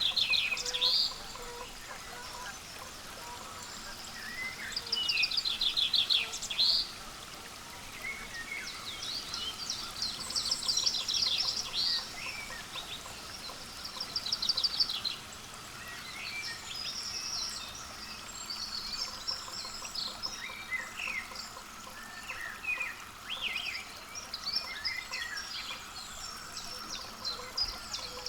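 Small songbirds singing and calling: rapid high trills and chirps come in short phrases every few seconds over a steady outdoor background.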